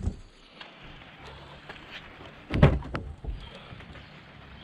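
Plastic door trim being handled: one short knock about two and a half seconds in, otherwise only faint background.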